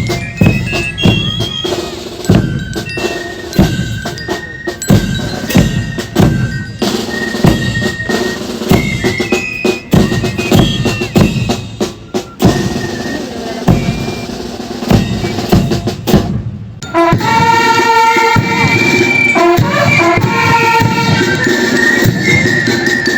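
Drum and bugle marching band playing. Snare and bass drums beat a steady marching cadence. About three quarters of the way through, after a brief break, bugles come in with sustained notes over the drums.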